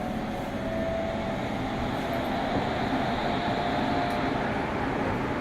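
Meitetsu 100 series electric train running through a subway tunnel, heard from inside the car: a steady rumble of wheels on rail, with a faint whine that rises a little in short stretches.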